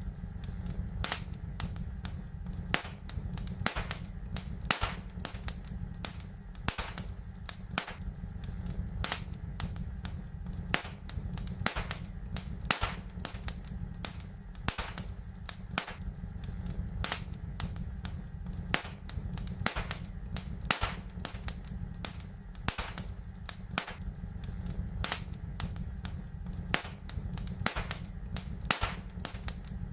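Fireplace fire crackling: irregular sharp pops and snaps, a few a second, over a steady low rumble of burning.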